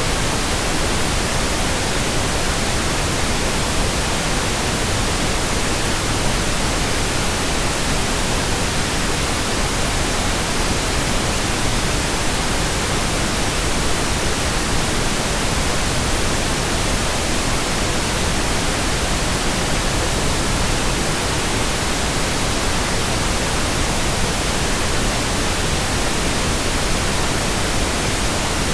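Steady, unchanging white noise: an even hiss spread across the whole range from low to high, with no events or changes.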